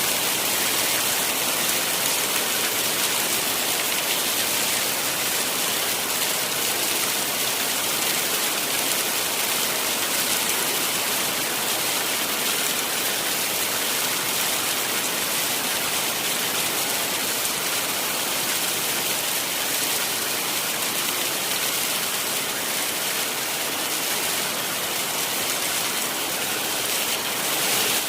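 Heavy rain falling steadily: a dense, even hiss without letup.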